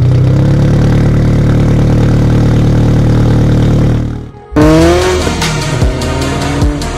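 Turbocharged Toyota GT86's flat-four engine, heard through its Tomei Expreme exhaust, held at steady revs for about four seconds. It cuts off briefly and then comes back with its pitch rising as it revs up, with electronic music mixed in.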